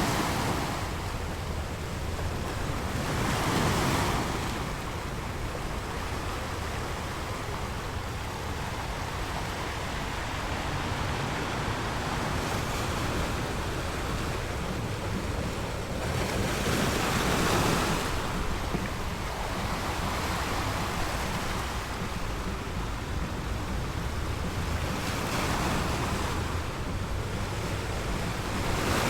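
Ocean surf: waves breaking and washing ashore in slow swells, three surges rising and falling over a steady low rumble of water.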